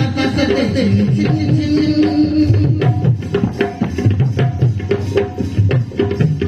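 Folk theatre music: hand drums beating a busy rhythm under a melody instrument playing long held notes that step between pitches.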